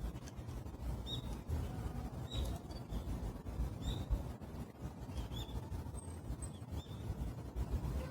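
Low wind rumble on a phone microphone, with short high bird chirps about every second or so.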